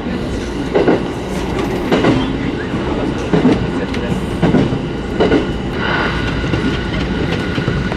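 Local electric train running along the track, heard from on board: a steady rumble with the wheels thumping over rail joints in a clickety-clack about once a second.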